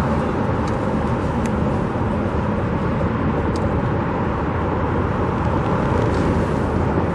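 Steady road traffic noise: a constant rush of passing cars with no break.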